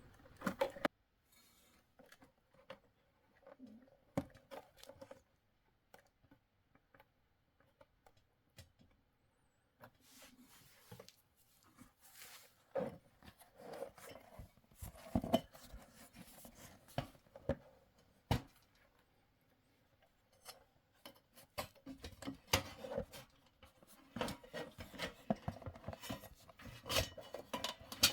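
Scattered clicks, knocks and rubbing of a diesel heater's covers and parts being handled and fitted back on. The clicks are sparse at first, there is a mostly quiet stretch, and the clatter grows busier in the second half.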